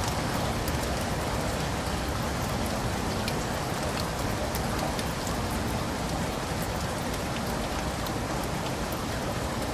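Heavy rain falling steadily, a dense even hiss with many individual drops ticking on surfaces.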